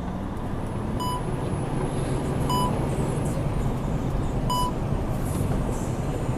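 Steady road and engine noise of a moving vehicle, with a short electronic beep sounding three times at uneven intervals.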